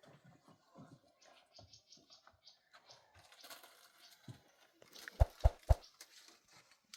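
Faint scattered rustling and scraping, then three sharp knocks in quick succession about five seconds in.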